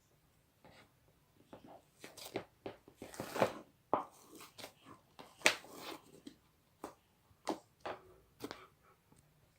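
Pink slime being squeezed and pressed by hand, giving irregular sticky clicks, crackles and squishes, with a few sharper snaps about three and a half and five and a half seconds in.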